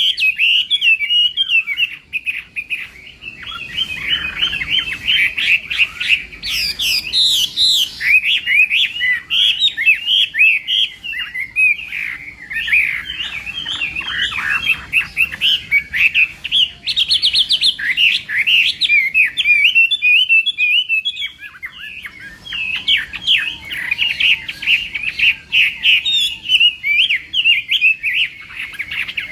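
Chinese hwamei (melodious laughingthrush) singing a long, rapid, varied song of whistled phrases and trills, the contest song kept for singing matches, with brief lulls about two seconds in and again after about twenty seconds.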